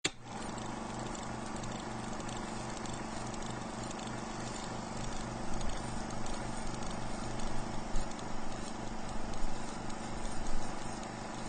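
A heat-engine lab engine running steadily, with a low hum that pulses at an even beat under a rumble. Louder knocks come in irregularly from about halfway through.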